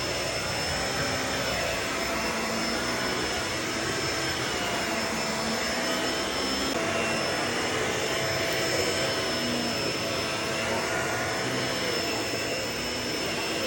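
Vacuum cleaner running steadily: a constant rush of air with a thin, steady high whine over it.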